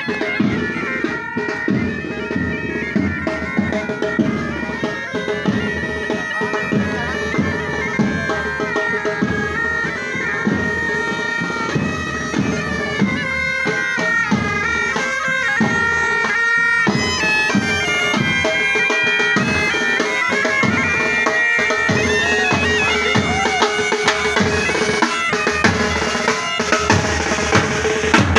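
Military pipe band playing: bagpipes sounding a melody over their steady drone, with snare and bass drums beating along.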